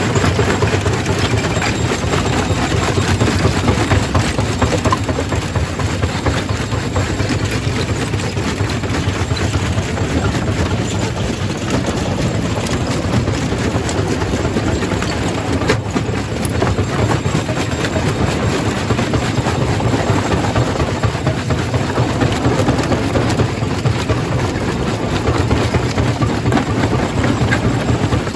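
Quarry primary rock crusher running: a steady, heavy mechanical drone with continuous dense clatter.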